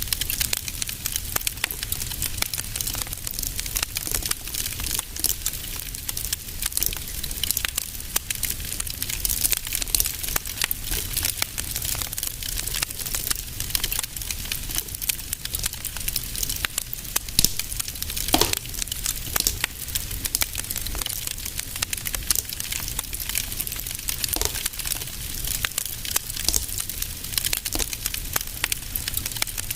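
Wood fire crackling in a fireplace: a dense, steady run of small pops and snaps over a low rumble, with one louder pop about eighteen seconds in.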